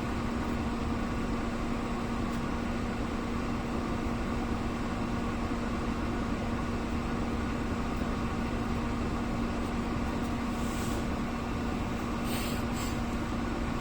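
Steady hum of an idling vehicle engine, with one even low drone and a couple of brief rustles near the end.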